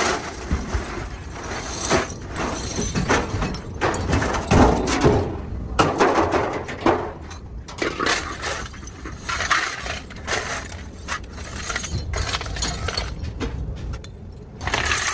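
Metal parts clattering and clinking, with many irregular knocks close together.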